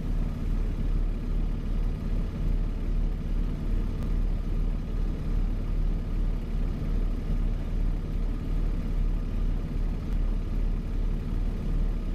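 Steady rumble of a car driving, engine and road noise with no sudden events.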